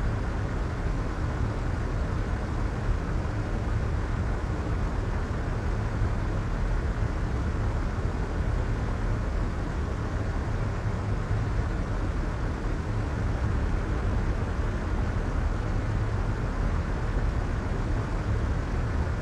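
Soft white noise for sleep: a steady, even rush with most of its weight in the deep bass and the highs rolled off, unchanging throughout.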